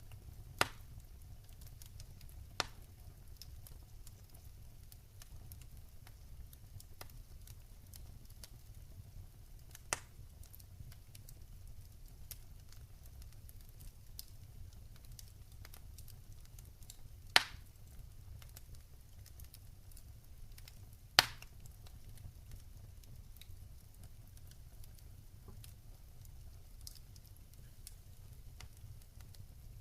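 Wood fire crackling in a fireplace: a fine scatter of small ticks and five sharp pops, the two loudest about seventeen and twenty-one seconds in, over a steady low rumble.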